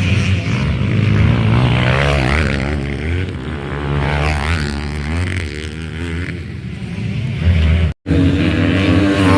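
Motocross dirt bikes racing, their engines revving up and down as they accelerate and back off. The sound breaks off for an instant about eight seconds in, then the engines carry on.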